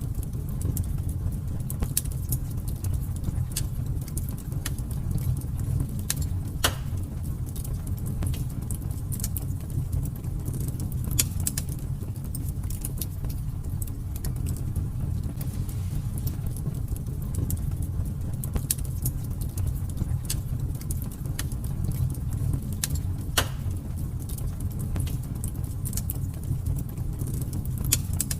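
Fire burning in a fireplace, crackling steadily with irregular sharp pops over a low rumble; two louder pops stand out, about a third of the way in and again near the end.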